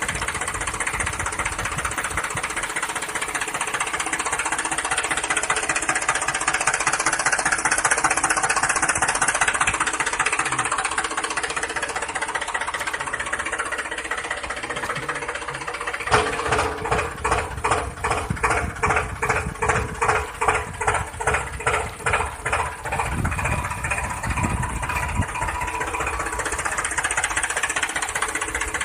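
A motor running steadily; about halfway through it starts pulsing roughly three times a second for several seconds, then steadies again.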